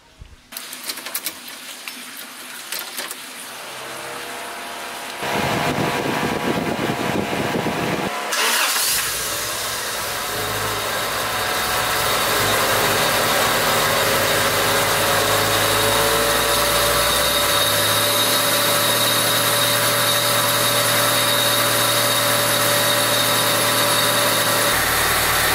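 Swapped Honda VTEC four-cylinder engine being started, catching about nine seconds in and then running steadily, its revs easing down as it settles. It sounds smooth, with no clatter now that the lost motion assemblies in the head are fitted the right way up.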